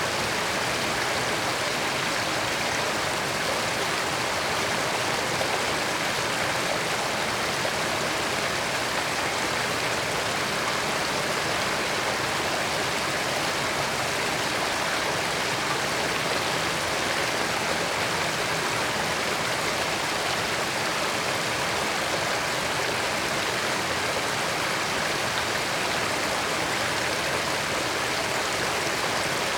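Creek water flowing over rocks, a steady, even rushing and babbling with no change.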